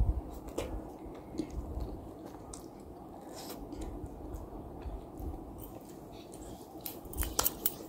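Close-up chewing of instant noodles, with scattered small wet mouth clicks, and a few sharper bites near the end as fresh greens are eaten.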